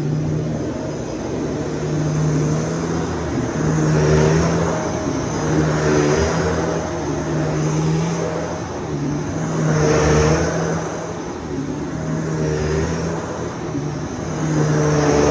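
Shark DuoClean Lift-Away PowerFins upright vacuum running steadily while vacuuming, its motor hum swelling and easing about every two seconds.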